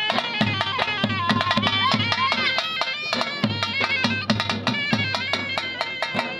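Traditional Gilgit-Baltistan polo music: a surnai (shawm) plays an ornamented, wavering melody over rapid, steady drum strokes.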